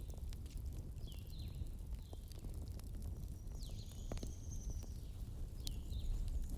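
Wood fire crackling: scattered sharp pops and snaps over a low steady rumble. Short high chirps come and go throughout, with one longer high note near the middle.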